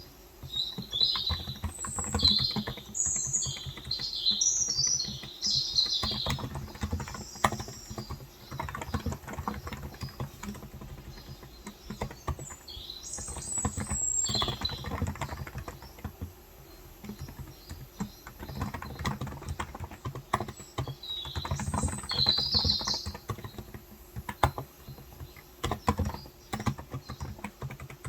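Steady typing on a Cox Endeavor electro-capacitive tenkeyless keyboard with 35 g switches, a run of soft key clicks. Birds chirp in three short bouts: in the first few seconds, near the middle, and again about three quarters of the way through.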